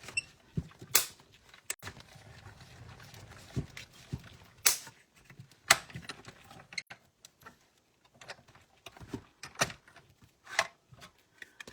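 Hand-cranked mini die-cutting and embossing machine, its plates being cranked through the rollers with a low rumble, among many irregular sharp clicks and knocks of plastic plates and the machine being handled.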